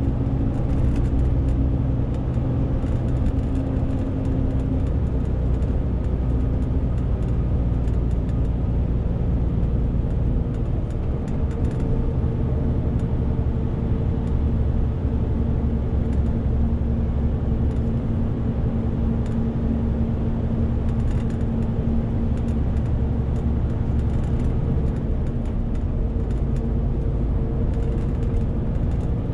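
Renault T520 truck's straight-six diesel engine running steadily while hauling a 40-tonne load, a constant low drone whose tones shift in pitch a few times.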